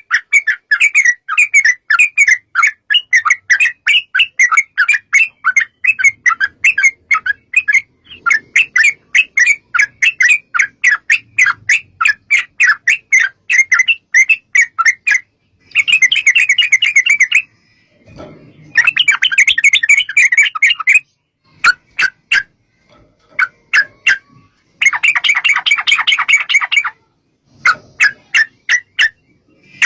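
Yellow-vented bulbuls chattering in long, rapid runs of sharp notes, about five or six a second, for the first fifteen seconds, then in shorter, denser bursts broken by scattered single notes.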